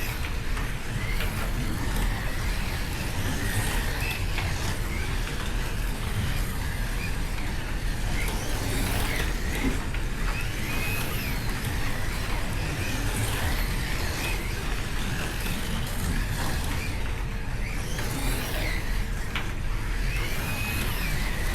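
Slot cars running laps on the track, their small electric motors whining in repeated rising and falling sweeps as they pass, over a steady rumble of cars on the track.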